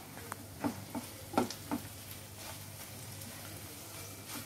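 Egg bhurji sizzling in oil in a nonstick pan while a silicone spatula stirs it, with a few soft scrapes of the spatula, most of them in the first two seconds.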